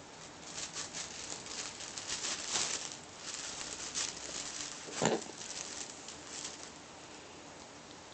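Kittens scampering and scrabbling at play: quick scratchy rustles and patters, with one louder thump about five seconds in.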